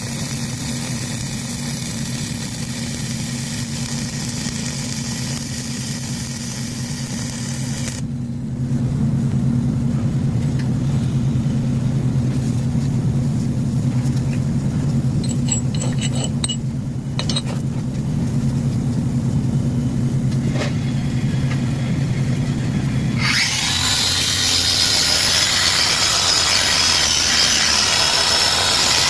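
Flux-cored arc welding: the arc gives a steady hiss and crackle, which stops about eight seconds in. A steady low hum remains, with a few clicks, and the arc strikes up again about two-thirds of the way through.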